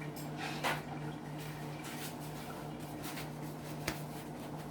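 Faint kitchen handling sounds: a few light taps and scrapes of utensils and dishes, over a steady low hum.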